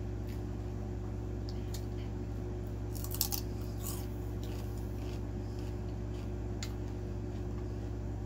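Crisp crunching as a raw celery stick is bitten and chewed close to the microphone, with a cluster of loud crunches about three seconds in and a few softer ones after. A steady low hum runs underneath.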